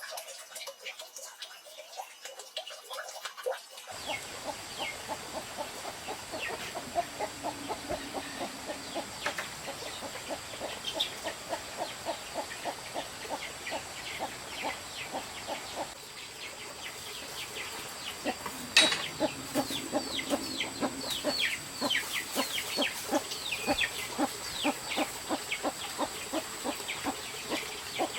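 Birds chirping in quick repeated short notes over a steady high insect drone.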